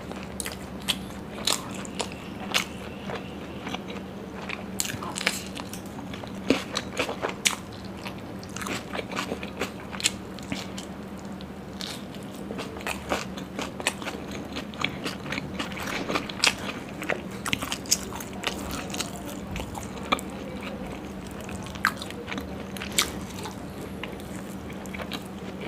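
Close-miked eating: wet chewing and biting through big hand-fed mouthfuls of paneer curry and puri, with frequent sharp crunches and mouth clicks. A steady low hum sits underneath.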